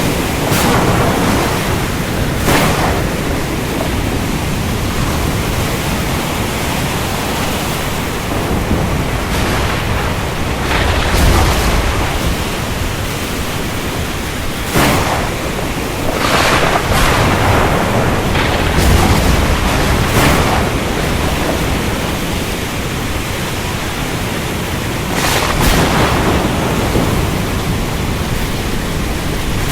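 Steady, loud rain hiss with thunder: sharp cracks about a dozen times and low rumbling swells, notably around a third and two thirds of the way in.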